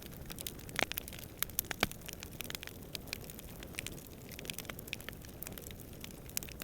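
Campfire burning with irregular crackles and snaps of burning wood, two louder pops about a second and two seconds in, over a steady low background rumble.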